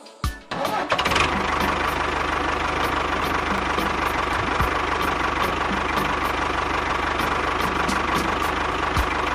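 A small engine starts up about a second in and then runs steadily with a fast, even beat.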